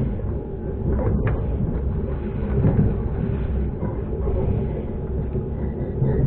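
Train running along the track: a steady low rumble of wheels and carriage with loose rattles and the odd knock.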